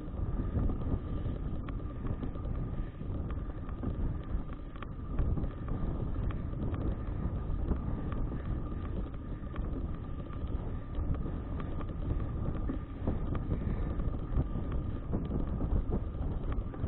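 Wind buffeting the microphone of a bicycle-mounted action camera while riding, a steady low rumble with a faint high whine underneath.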